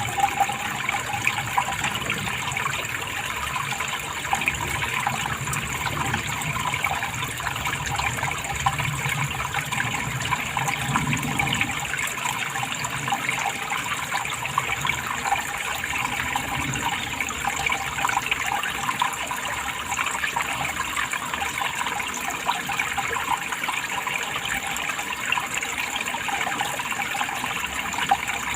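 Steady running water, a continuous trickling and splashing with no breaks.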